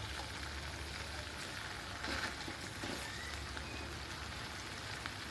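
Chopped tomatoes and green chillies frying gently in butter in a brass kadhai, a steady soft sizzle, cooking down until the tomatoes soften. There are a couple of faint clicks of the stirring spoon against the pan.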